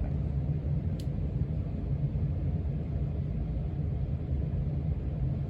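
1987 Casablanca Zephyr 44-inch ceiling fan running steadily on its lowest speed, a low even hum from the motor on its new bearings, without stalling. A faint tick about a second in.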